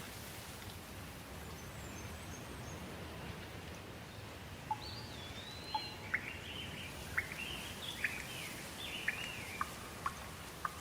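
Steady light rain falling, with birds calling over it from about halfway in: a run of short chirps and whistled notes.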